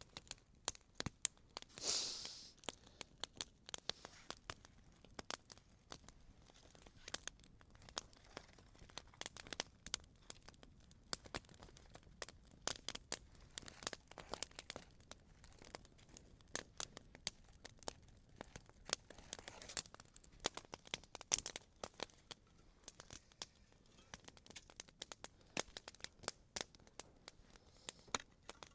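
Small campfire crackling, with many irregular sharp pops and snaps.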